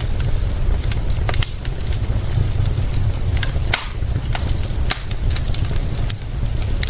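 Wood fire crackling, with irregular sharp pops and one louder crackle a little under four seconds in, over a steady low rumble and the hiss of rain.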